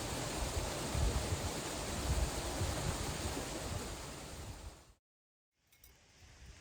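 Steady rushing outdoor noise with gusts of wind rumbling on the microphone. It fades out about four to five seconds in, breaks into a moment of dead silence at an edit, then gives way to faint light clicks.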